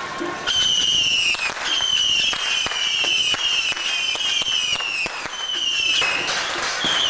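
Firecrackers going off in a rapid string of bangs, starting about half a second in, mixed with a run of high whistling tones that each fall slightly in pitch.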